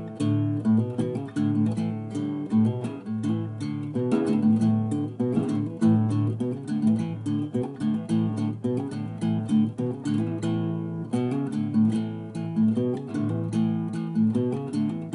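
Acoustic guitar playing, with strummed chords and plucked notes.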